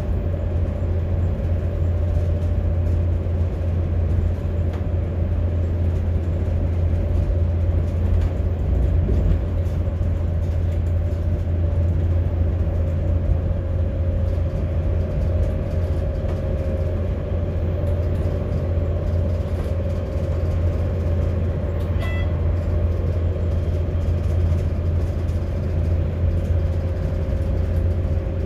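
Diesel train running at speed, heard from inside the driver's cab: a steady low rumble of engine and wheels on the rails with a constant hum. A short click with a brief beep comes about three-quarters of the way through.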